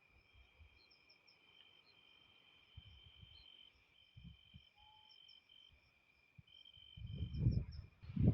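Faint, steady, high-pitched insect trilling, with some trills breaking off and starting again and small high chirps above them. Near the end come a few low rumbles and thumps that are louder than the trilling.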